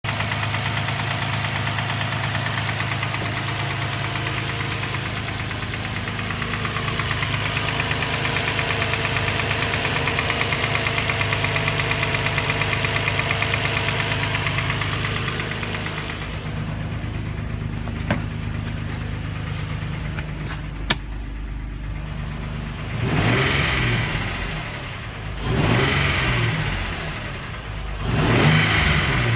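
Infiniti G35's 3.5-litre V6 running with a steady rhythmic knock, which the owner can't place but thinks comes from the transmission area. After a quieter stretch with two sharp clicks, the engine is revved three times near the end.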